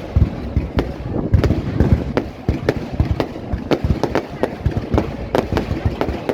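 Fireworks display exploding in a rapid, continuous barrage: many sharp bangs and cracks a second over a steady low rumble of booms.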